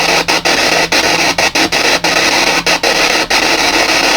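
A PSB7 spirit box sweeping through radio stations: loud static hiss chopped by brief dropouts a few times a second as it scans.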